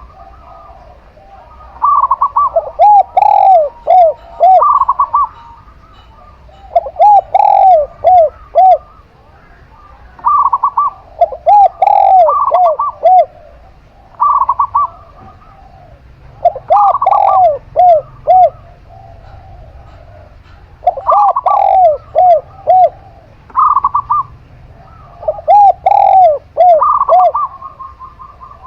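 A zebra dove and a spotted dove cooing in turn. One gives short higher phrases, the other a lower series of four or five rounded notes. Their bouts repeat about every four to five seconds.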